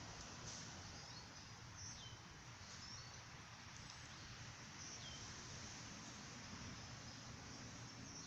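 Faint, short high bird chirps, a few seconds apart, over a steady outdoor hiss.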